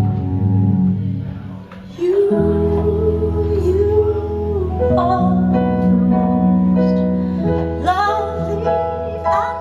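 A woman singing a slow song over sustained keyboard chords. The accompaniment dips briefly about two seconds in, then voice and keyboard come back in together.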